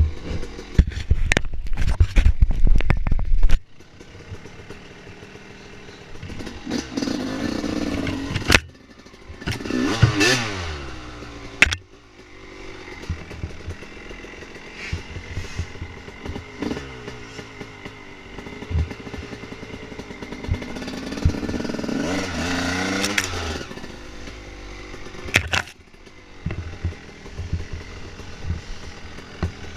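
Dirt bike engine revving up and falling back twice while riding a trail, with clattering knocks throughout. Heavy low buffeting fills the first few seconds.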